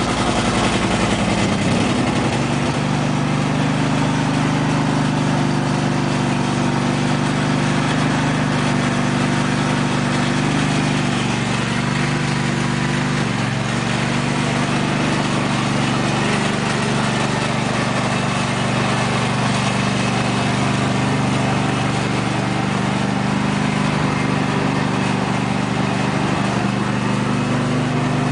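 2005 Husqvarna lawn tractor's 24 hp Briggs & Stratton V-twin engine running steadily just after a cold start, settling in the first couple of seconds.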